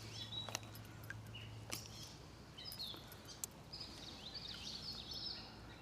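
Songbirds singing and calling in short whistled notes and trills, busiest in the second half, with a few sharp clicks in between.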